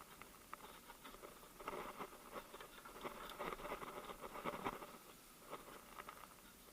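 Faint rustling and scattered light clicks of hands working a toothed timing belt onto the camshaft pulleys.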